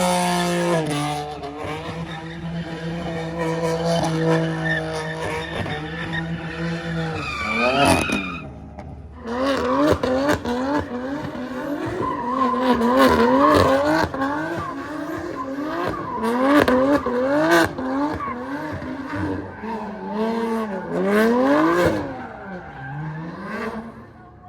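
Car engine at high revs while the car spins on the spot, tyres skidding. For the first several seconds the revs are held nearly steady. After a short dip about eight seconds in, the revs bounce up and down about twice a second as the throttle is worked, then fade near the end.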